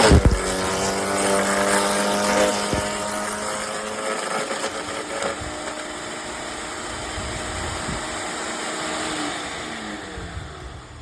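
LawnMaster FD1503 electric wood chipper shredder's 15-amp motor running with a steady hum and a loud, rough grinding noise over the first few seconds, then winding down with a falling pitch near the end as it is switched off.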